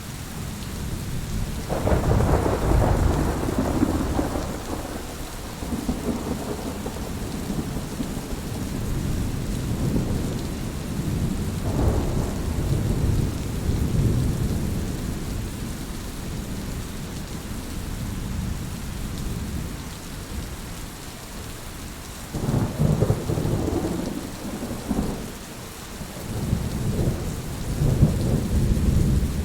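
Heavy rain falling in a steady hiss, with thunder rolling several times in deep, drawn-out rumbles: a long one about two seconds in, a shorter one near the middle, and a run of rolls near the end.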